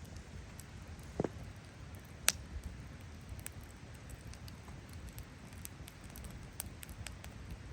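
Wood fire crackling, with scattered small ticks and pops and one sharp crack about two seconds in.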